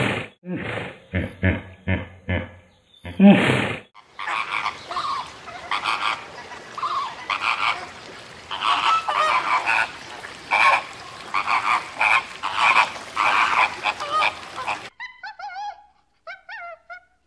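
Hippos grunting in a quick series of deep pulses for the first few seconds, then a flock of flamingos honking and chattering together, many calls overlapping. The flock breaks off and a few quieter high, sweeping chirps follow near the end.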